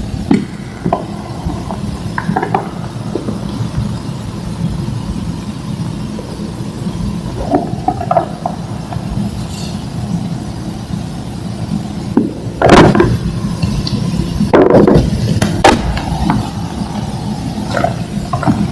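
Dried slabs of homemade green gym chalk being crushed and crumbled: scattered crunches and crumbling, loudest in a cluster about two-thirds of the way in, over a steady low hum.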